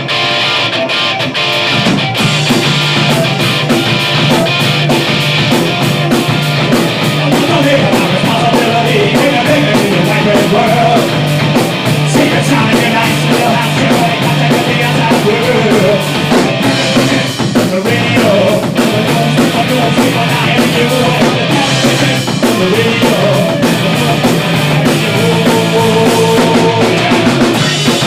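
Punk rock band playing loud and fast: distorted electric guitars over a driving drum kit.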